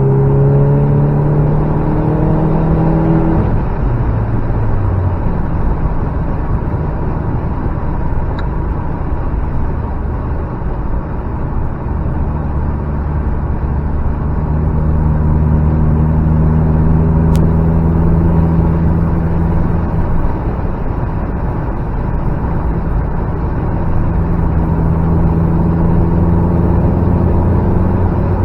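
Car engine and tyre road noise while driving: the engine holds a steady note for the first few seconds, drops off about four seconds in as the throttle is eased or a gear is changed, then runs on under load at a lower, steady note that rises slowly twice.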